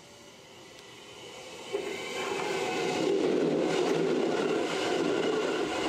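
Keihan Uji Line four-car electric train approaching and then running directly overhead on a low steel girder bridge. The rumble of wheels on the girders builds and becomes loud about two seconds in. Thin, high squealing comes from the wheels as the train takes the curve.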